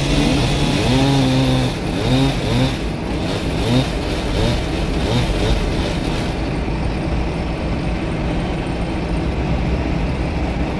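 Chainsaw engine running, held steady at first, then revved up and down in quick repeated blips for a few seconds before settling into a steady drone.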